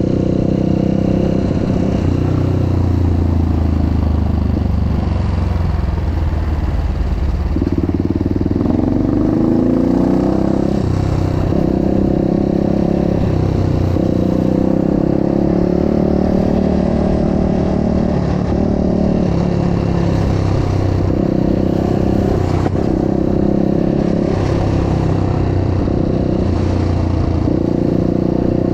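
Dirt bike engine being ridden hard, revving up and falling back again and again as the throttle is worked and gears change.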